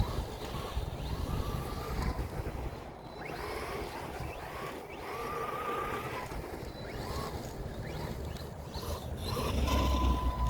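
Redcat Volcano EPX Pro brushless RC monster truck running, its electric motor giving a faint wavering whine over tyre and wind noise.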